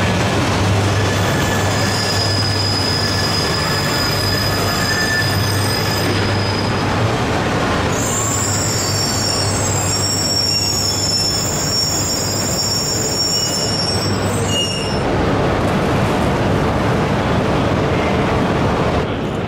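E3-series Genbi Shinkansen train running slowly alongside the platform, a steady rumble under high-pitched squealing as it slows. The squealing comes in two long stretches and stops about 15 seconds in, leaving the rumble of the train.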